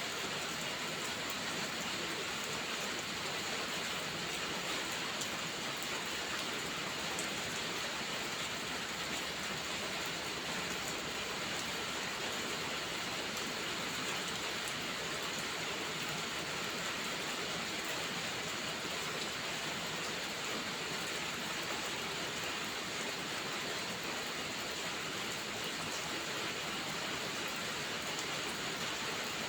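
Steady rainfall, an even hiss with a few faint ticks.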